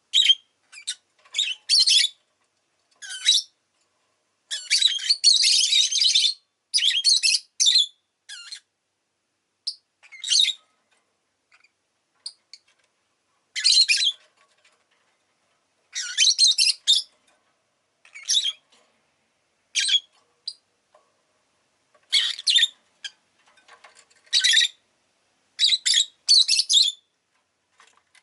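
Rosy-faced lovebird chirping and squawking in short, shrill bursts that come every second or two, with a longer run of rapid calls about five seconds in.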